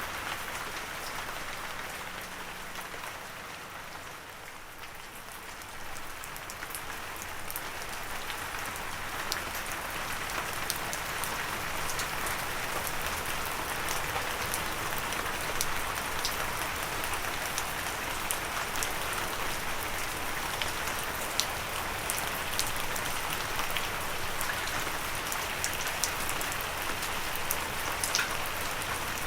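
Gentle rain falling steadily, a continuous hiss with scattered sharp ticks of individual drops. It eases briefly a few seconds in, then returns to a steady, slightly fuller fall.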